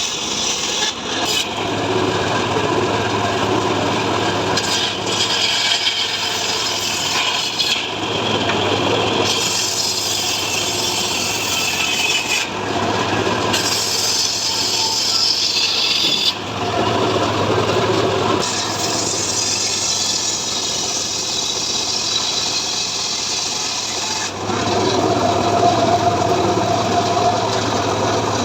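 Homemade chainsaw-powered saw rig (srekel) cutting mahogany: a steady engine drone under a rasping cut noise that shifts in tone every few seconds as the cut goes on.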